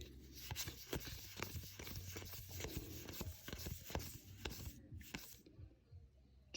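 Magic: The Gathering cards being flipped through by hand: soft, irregular clicks and slides of card on card, stopping about a second before the end.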